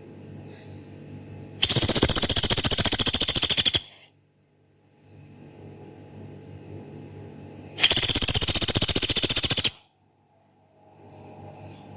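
Pelatuk beras, a small pygmy woodpecker, giving its long, harsh rattling call twice: a rapid, high-pitched pulse train of about two seconds each time, starting and stopping abruptly. A faint low hum sits between the calls.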